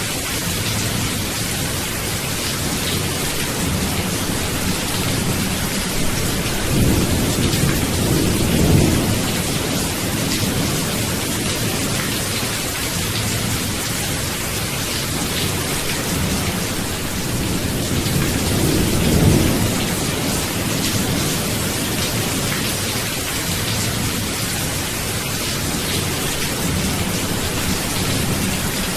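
Steady rain falling, an even hiss, with low rolls of thunder swelling twice, about seven seconds in and again near the middle.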